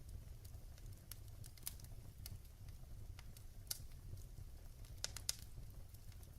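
Wood fire in a fireplace crackling: irregular sharp pops and snaps over a low steady rumble. The loudest snaps come a little past halfway and about five seconds in.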